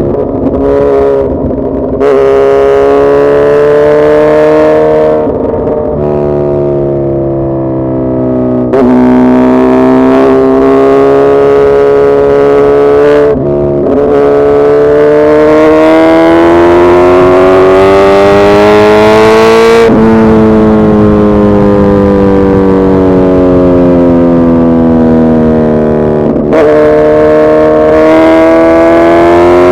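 Suzuki Hayabusa's inline-four engine under way, loud and steady. The engine note climbs and falls with the revs and jumps suddenly in pitch several times, at gear changes.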